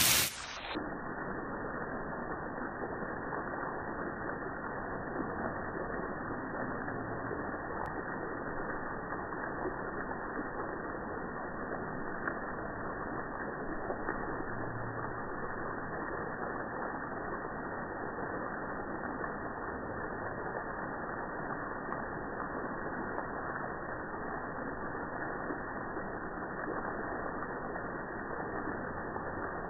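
A heavy downpour pouring off porch eaves, slowed down to slow-motion speed: a steady, dull, low rushing with none of rain's usual hiss.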